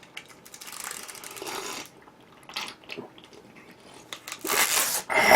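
Close-miked eating: crunchy chewing of crispy fried chicken, with two louder crunching bursts near the end.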